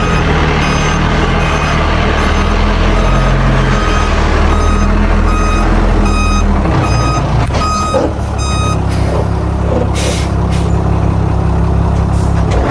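A heavy diesel earthmoving machine's reversing alarm beeps about every half second over its loudly running engine. The beeping stops about two-thirds of the way through, and two short hisses follow near the end.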